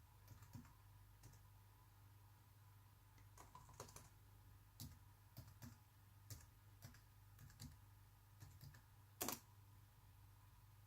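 Keys and buttons on an Alienware M17x R2 laptop pressed at an irregular, unhurried pace: about a dozen separate clicks, the loudest about nine seconds in, over a faint steady low hum.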